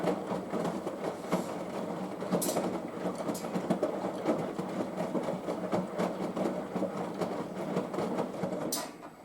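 Front-loading washing machine drum doing fast wash tumbles during a hot 95 °C wash. Laundry and sudsy water churn in the drum, with frequent clicks and a few sharp knocks. The tumble stops near the end.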